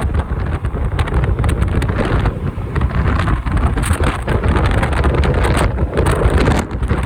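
Typhoon wind buffeting the microphone of a moving motorcycle, a loud gusting rumble, with the motorcycle and road noise underneath.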